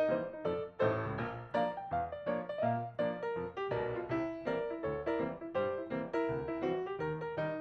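Background piano music: a run of struck notes and chords in a steady rhythm.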